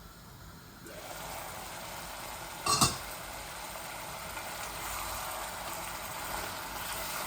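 Chicken curry sizzling steadily in oil in a cooking pot as the water cooks off and the oil separates. The sizzle comes up about a second in, with one sharp knock, likely a utensil against the pot, just under three seconds in.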